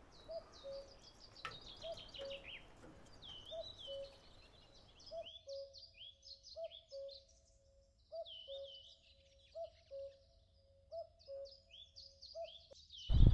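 Several birds singing, with quick high chirping phrases and a lower two-note call repeated about once a second. Just before the end a sudden loud rumble cuts in.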